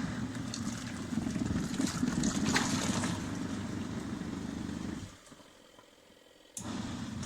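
Compact twin-tub washing machine running its wash cycle, the motor humming as the water churns. It stops about five seconds in and starts again a second and a half later.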